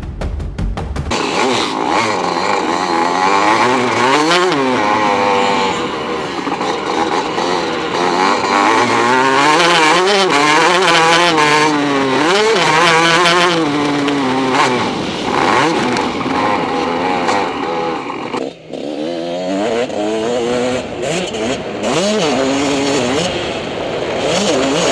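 Motocross bike engine revving up and down again and again under hard riding, its pitch climbing and falling with the throttle, and a brief throttle cut late on. A drumbeat of music stops about a second in.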